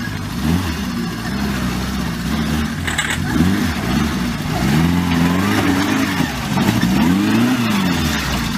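Vehicle engine revving up and down over and over, its pitch rising and falling about once a second.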